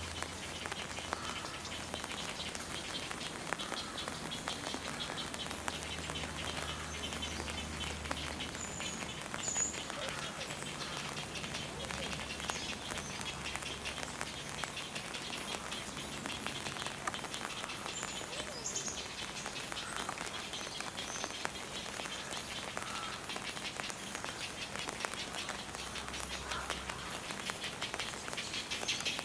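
Outdoor ambience of rain pattering, with a few brief bird chirps, the first about nine seconds in and another near the middle.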